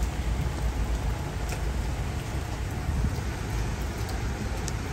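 Rain falling steadily, a constant hiss with a few sharp drip taps scattered through it.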